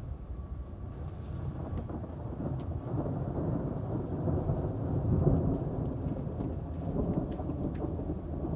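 Rolling thunder rumbling low and swelling to its loudest about five seconds in, over steady rain with scattered drops ticking.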